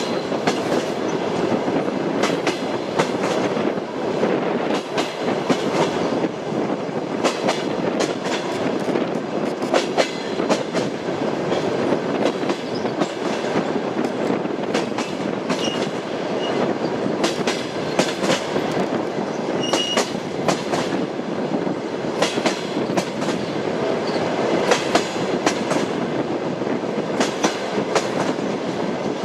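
Train wheels rolling over jointed rail: a steady rumble with the clickety-clack of wheels striking the rail joints, repeating irregularly throughout.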